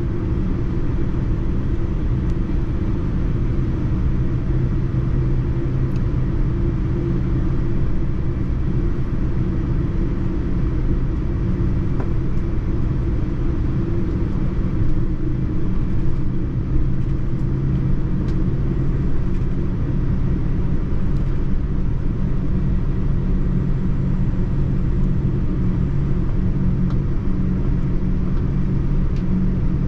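Steady cabin noise inside a Boeing 787-9 airliner: a continuous low rumble and hum from the engines and airflow.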